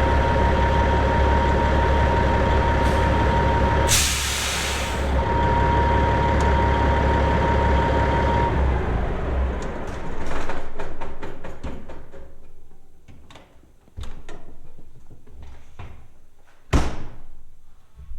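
Semi truck's diesel engine running at idle with a steady high-pitched tone over it. A short air-brake hiss about four seconds in, then the engine is shut off about halfway through and winds down. Clicks and rattles follow, and a loud slam near the end, like a cab door shutting.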